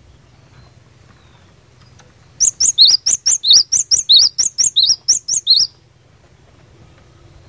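Cinereous tit (glatik batu) singing one fast burst of about seventeen sharp, high notes in just over three seconds, the notes alternating between higher and lower pitches. It starts about two and a half seconds in.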